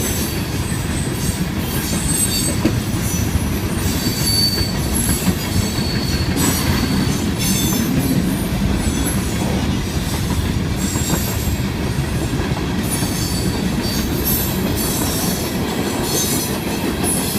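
Herzog ballast train's cars rolling on the rails, a steady low rumble with brief high-pitched wheel squeals and occasional sharp clanks.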